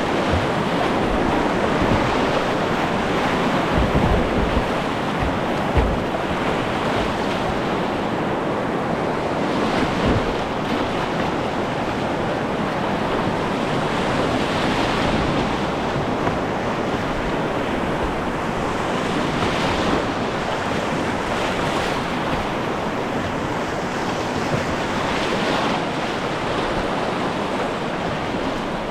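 Rushing river water heard from a kayak, a steady whitewater hiss, with a few low thumps on the microphone about four and six seconds in.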